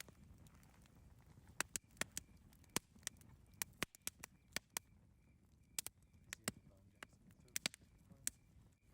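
Campfire crackling: sharp, irregular pops and snaps of burning wood over a low steady hiss.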